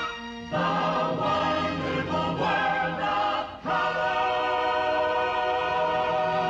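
A chorus singing a television theme song over an orchestra: a few short sung phrases, then one long held chord from about halfway through.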